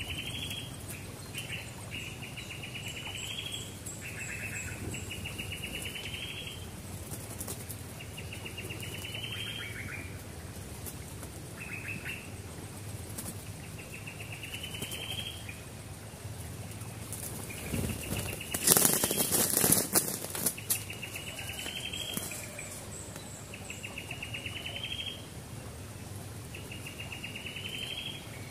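A bird repeating a short, buzzy trill that rises at the end, every second or two. About two-thirds of the way through comes a louder burst of wing flapping and rustling at the trap cage, lasting a couple of seconds.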